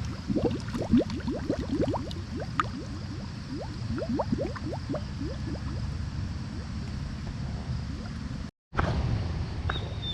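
Spring water welling out and gurgling, with many small bubbling pops over a low rush. It cuts off briefly near the end.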